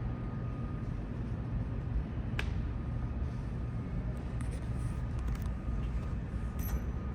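Steady low rumble in an underground subway station, with a faint thin tone and a few sharp clicks or clanks.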